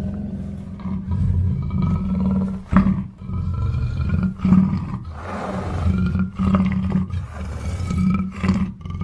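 Black panther growling and roaring in a run of rough, rasping calls, with a few short, sharper calls standing out.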